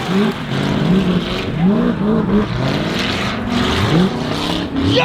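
Burnout truck engines revving hard over and over, each rev climbing quickly in pitch, over the dense hiss of rear tires spinning in a burnout.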